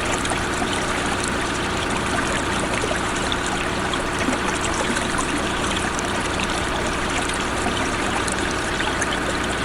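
Steady rushing of running water, even and unbroken, with a faint low steady hum beneath.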